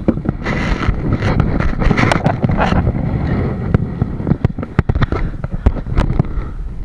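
Wind buffeting the microphone, with many irregular knocks and thumps from the kayak and its paddle being manoeuvred alongside to land.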